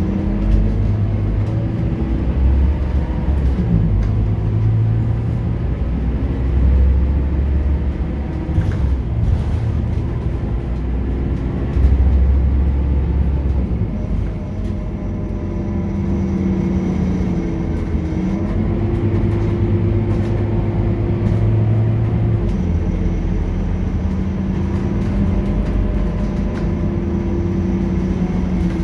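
Scania K230UB bus's diesel engine and ZF automatic gearbox under way, heard on board; the engine note rises and falls several times as the bus pulls and changes gear. A faint high whine comes and goes through the second half.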